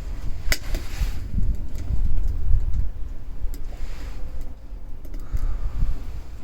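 Wind buffeting the microphone in a low rumble, with one sharp click about half a second in and a few fainter ticks and knocks later.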